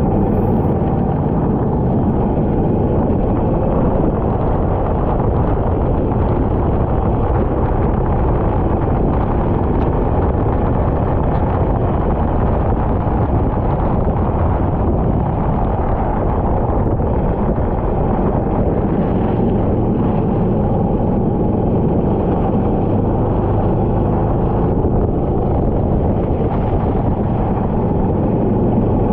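Go-kart running steadily at speed on track, a loud, unbroken rushing engine noise with no clear pitch changes.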